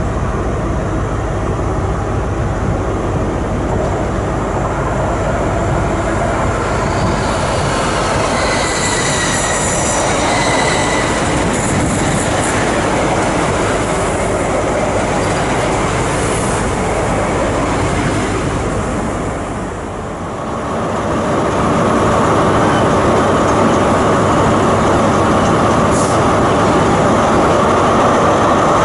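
Passenger train running on the rails at a station, with high-pitched wheel squeals a third of the way in. The noise dips briefly about two-thirds through, then comes back louder and steadier.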